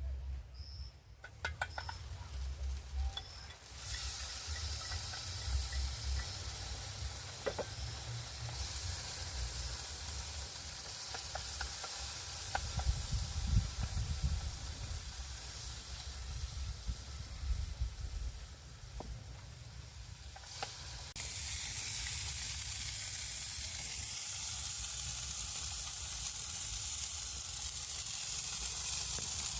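Tucum palm grubs frying with onion and pepper in a pan, sizzling steadily, with a few light clicks of stirring. The sizzle gets noticeably louder about two-thirds of the way in.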